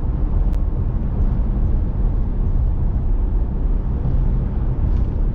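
Steady low rumble of road and engine noise inside a moving vehicle's cabin, with one faint click about half a second in.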